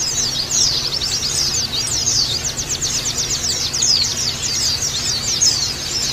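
A flock of white-eyes (pleci) twittering together in a dense, fast, high-pitched chatter of many overlapping short downward chirps, over a faint steady low hum.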